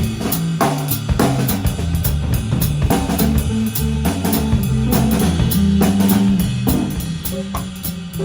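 Live instrumental band playing: drum kit with kick, snare and steady cymbal strokes over a moving electric bass line and guitar.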